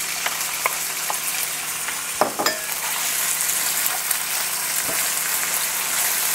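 Raw chicken pieces sizzling steadily in hot oil in a wok, stirred with a wooden spatula, with a few knocks of the spatula against the pan about two seconds in and again near five seconds.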